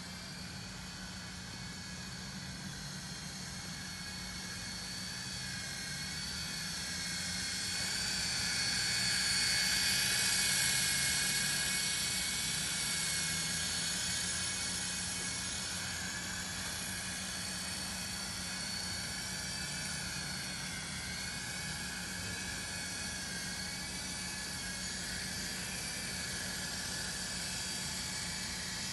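Syma S32 toy RC helicopter flying: a high electric-motor and rotor whine whose pitch wavers up and down with throttle, growing loudest about ten seconds in.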